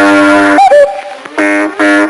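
Cartoon soundtrack of brass-like horn blasts: one long steady blast, a short sliding voice-like sound just after half a second, then two shorter blasts at the same pitch.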